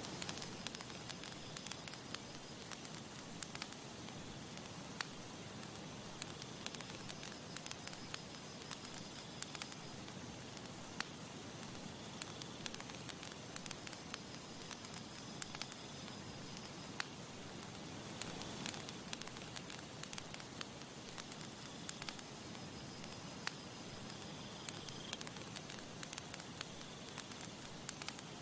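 Campfire burning with a steady soft hiss and frequent irregular crackles and sharp pops from the burning wood.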